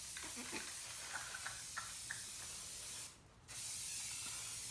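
Aerosol spray paint can spraying in a steady hiss, stopping briefly about three seconds in and then starting again.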